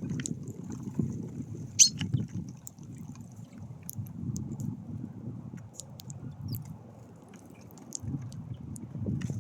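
Low, uneven rumble of wind buffeting the microphone, with short high chirps and ticks from small birds at a feeder scattered over it; the sharpest chirp comes about two seconds in.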